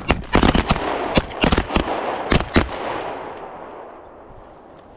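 A rapid volley of shotgun blasts from several hunters firing together, about ten shots in the first two and a half seconds, then the report dies away.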